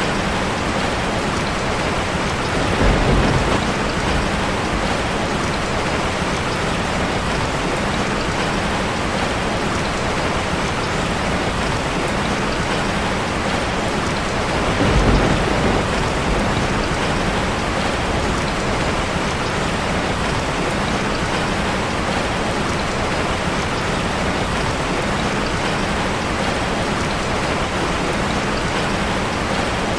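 Steady heavy rain drumming on a metal roof, with two short low rumbles, about three seconds in and again near the middle.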